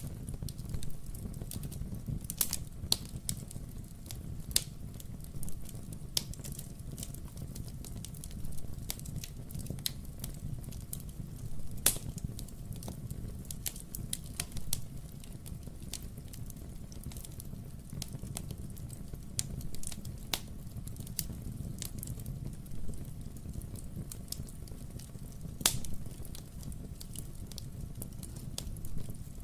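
Wood fire burning in a fireplace: a steady low rumble of flames with scattered sharp crackles and pops from the burning logs, a few louder pops standing out.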